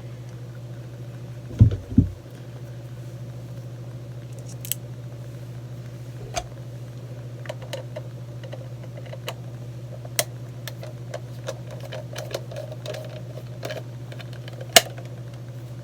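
Light plastic clicks and ticks as a screwdriver turns out the battery-cover screw of a small plastic makeup brush washing machine, with one louder click near the end. Two low thumps about two seconds in, over a steady low hum.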